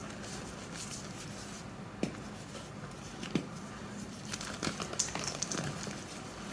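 Reformed, dyed gym chalk block being crushed, crunching and crumbling with crisp cracks. A single crack comes about two seconds in and another just after three seconds, then a quicker run of crunches in the second half.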